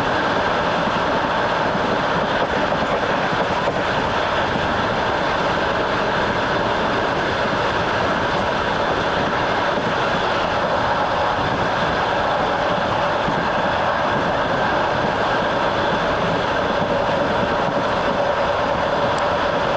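Train running steadily on the rails, heard from aboard: a continuous, even rumble of wheels and carriage.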